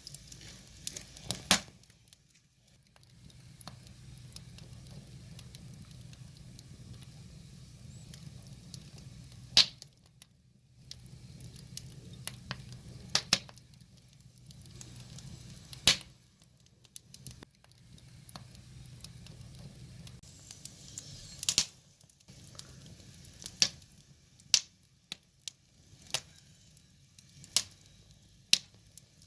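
Firewood fire crackling, with sharp pops at irregular intervals over a low hiss that fades in and out.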